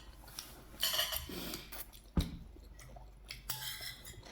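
Cutlery scraping and clinking on plates during a meal, with one sharp clink a little after two seconds in.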